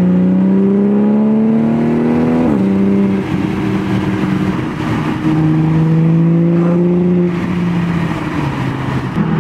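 Toyota Supra's engine through a Tomei aftermarket exhaust, pulling away under throttle. The pitch climbs and drops at gear changes, about two and a half seconds in and again around seven seconds.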